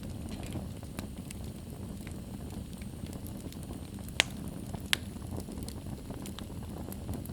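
Wood fire burning in a fireplace: a steady low rumble of flames with small crackles throughout and two sharp, loud pops about four and five seconds in.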